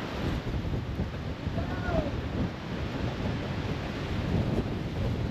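Rumbling, wind-buffeted noise of a 4WD driving up a steep mountain road. A short falling vocal sound comes about two seconds in.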